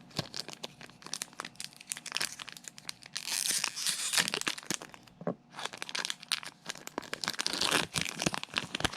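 A foil booster-pack wrapper being crinkled and torn open by hand, with steady crackling and two longer tearing rips, one a few seconds in and one near the end.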